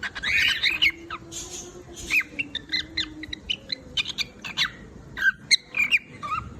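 Cockatiel singing: a quick run of short whistled chirps and warbled notes that bend up and down in pitch.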